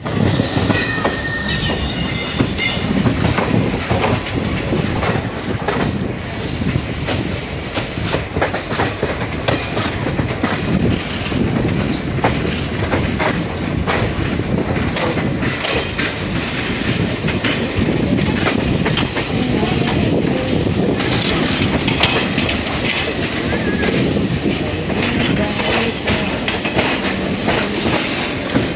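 Passenger train pulling out of the station, heard from aboard the moving coach: a steady rumble of wheels on track with many clicks as the wheels pass over rail joints and points. A brief high wheel squeal comes near the start on the curve.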